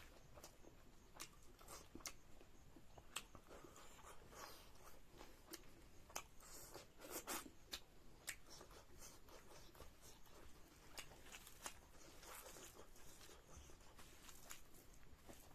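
Quiet eating sounds: chewing with scattered soft crunches and small mouth clicks, a slightly louder crunch about halfway through.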